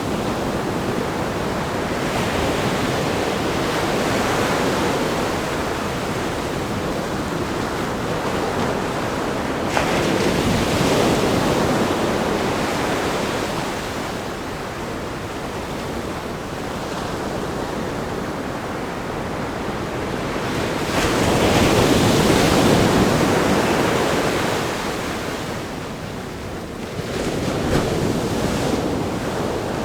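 Ocean surf breaking on a rock groin and sandy shore: a continuous wash of water that swells with the larger breakers about a third of the way in, around two thirds of the way in and near the end. A short sharp splash just before the first swell.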